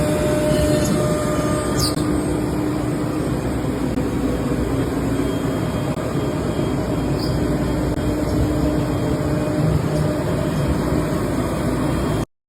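CNC router running, a steady machine noise with a faint constant hum; it cuts off abruptly near the end.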